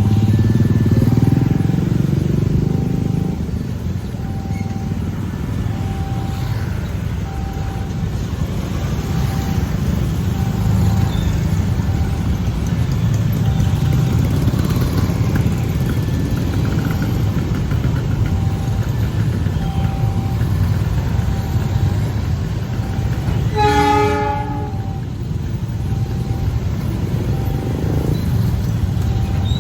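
Railway level-crossing warning bell ringing in a steady repeating tone about once a second over a continuous low rumble of a train. A brief train horn blast sounds about 24 seconds in.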